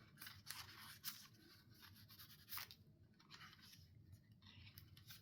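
Faint rustling and crinkling of laminated paper pages and a paper band being handled, with a few soft scratchy strokes.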